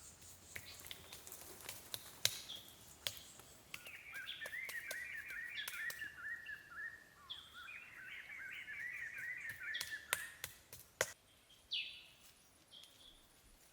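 Bird song: a run of rapid, repeated chirps, with scattered sharp knocks and taps.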